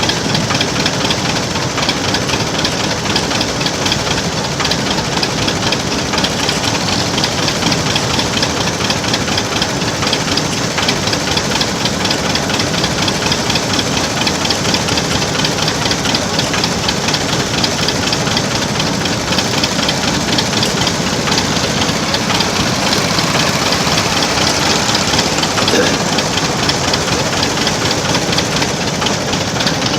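Vintage engine running steadily close by, with a rapid, even beat.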